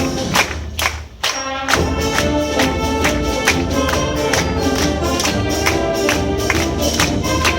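Concert wind band playing a lively piece with a steady beat of percussion strokes under the winds. About a second in it drops back briefly, then the full band comes back in.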